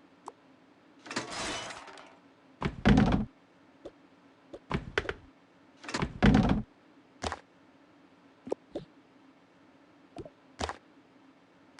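Knocks, clicks and thuds of things being handled and set down while cleaning out a refrigerator, with two heavier thumps about three and six seconds in and a short rushing sound about a second in.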